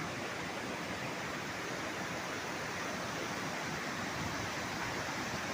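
Steady, even rushing noise that holds without pauses, strokes or changes.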